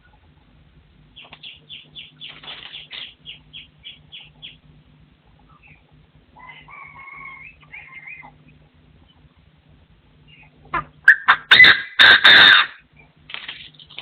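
Partridge calling: a run of short, quickly repeated notes early on, a longer call in the middle, then a loud burst of calls in the last few seconds.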